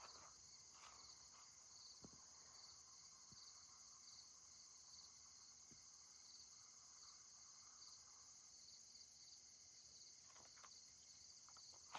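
Faint, steady chorus of crickets, high-pitched and continuous, with a few faint ticks.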